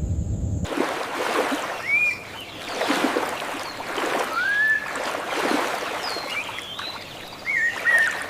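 Water sloshing and lapping in repeated swells about a second apart, with a few short whistled bird calls over it. A low steady sound cuts off abruptly under a second in.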